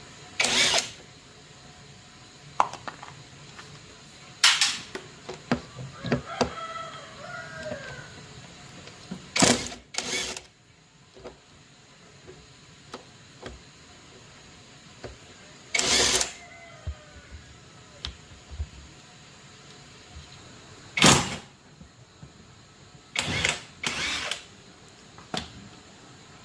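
Irregular knocks and short scraping or rustling bursts a few seconds apart, with a bird chirping faintly in between.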